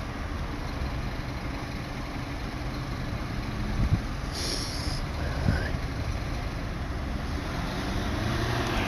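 Vehicle engine running steadily with a low rumble on the street. A brief hiss comes about four and a half seconds in.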